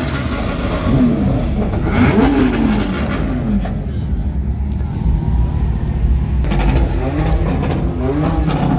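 Car engine revving repeatedly, its pitch sweeping up and falling back several times, with a few sharp crackles in the second half.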